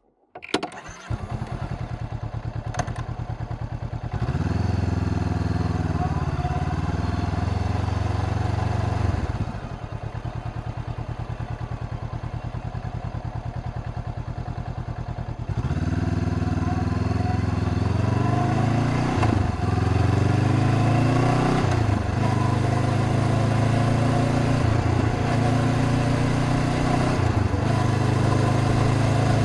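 2025 Honda CBR500R's parallel-twin engine starting up about half a second in and idling, its note rising around four seconds in and settling back about nine seconds in. From about fifteen seconds it runs harder, its pitch rising and dropping several times as the bike pulls away through the gears.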